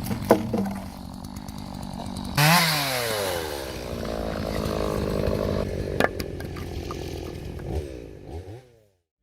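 Two-stroke chainsaw sawing dry deadwood for firewood. It runs low at first, is revved up sharply about two seconds in and runs high, its pitch sagging and rising as it cuts. It winds down near the end.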